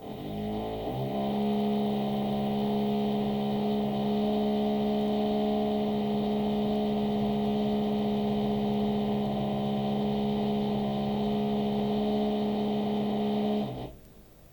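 An electric drill motor in the flat above, heard through the ceiling: it spins up with a rising whine over the first second, runs at a steady pitch for about thirteen seconds, then stops abruptly near the end.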